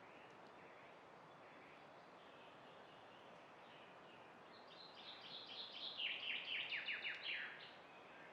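A bird singing a run of quick, high, down-slurred notes, about six a second, that grows louder for about three seconds from halfway through, over faint steady background hiss.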